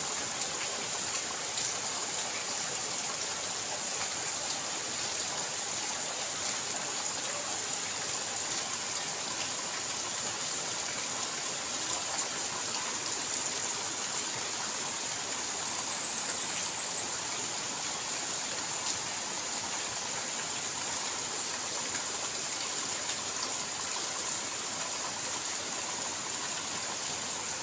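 Steady rain falling, an even hiss with scattered drop ticks. A brief run of fast high ticks comes about sixteen seconds in.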